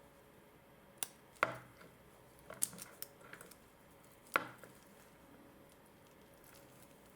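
Stainless steel watch bracelet and folding clasp being handled: a handful of short, sharp clicks and taps, the loudest about a second and a half in and again about four seconds in.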